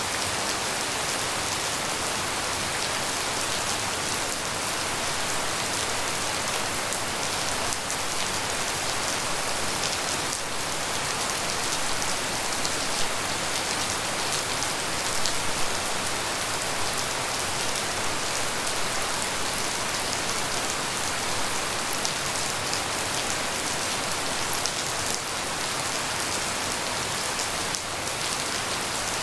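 Steady tropical rain falling, an even hiss with a few louder drops hitting close by around the middle.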